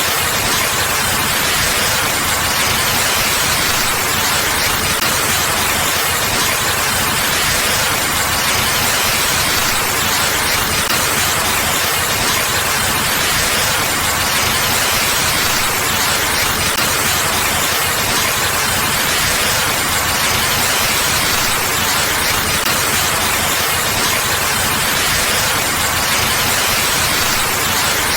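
Rain falling steadily on a puddled courtyard: a loud, even hiss.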